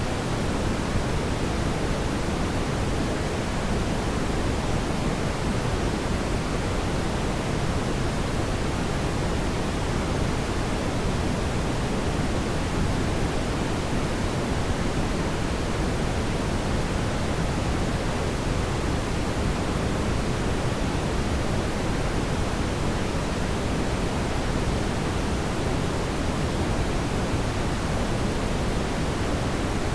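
Steady, even rushing noise, strongest in the low range, with no distinct crackles or pops and no change in level.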